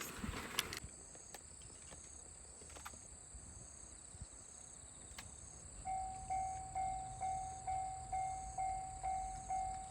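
Railway level-crossing alarm starting about six seconds in, ringing a clear, evenly pulsed ding about twice a second: the warning that a train is approaching. Before it, a brief burst of noise in the first second, then quiet outdoor background with a faint steady high whine.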